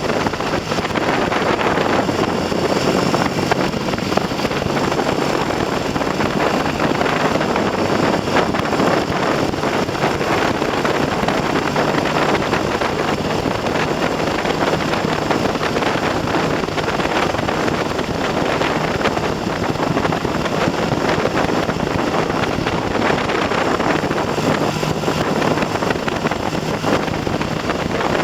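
Heavy wind buffeting on the microphone of a moving Triumph TR6 motorcycle, with the steady note of its 650 cc parallel-twin engine faintly underneath. The engine is freshly rebuilt with new pistons and rings and is being run in at moderate revs.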